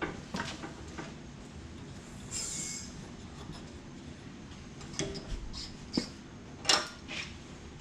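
Scattered metal clinks and knocks from hand work on a drum mower, with a brief high scraping squeal about two and a half seconds in and one sharper knock near the end.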